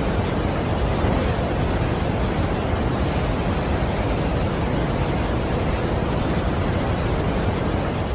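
Niagara Falls pouring: a steady, dense rush of falling water, heaviest in the low end, with no breaks or separate events.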